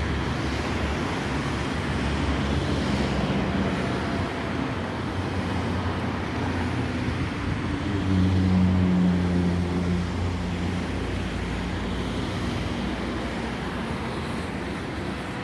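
Jet airliner engines of a Boeing 737 MAX 8 running, a steady rumble with a low drone that swells about eight seconds in, then eases off.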